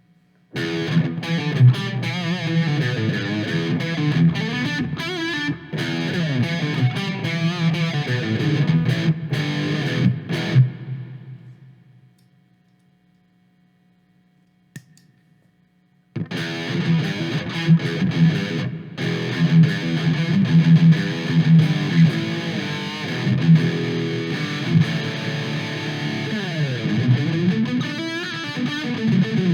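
Electric guitar played with overdrive through a Donner Tube Drive pedal into a Marshall amplifier, distorted riffs and chords. The playing stops about 11 seconds in and rings away to near silence, with one small click, then starts again about 16 seconds in.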